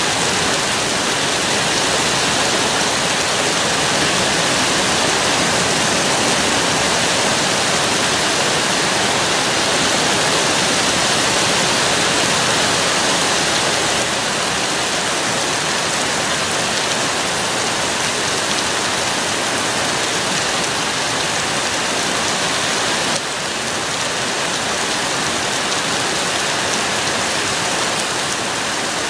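Thunderstorm rain pouring steadily, a dense even hiss with no thunder. It eases a little about halfway through and again near the end.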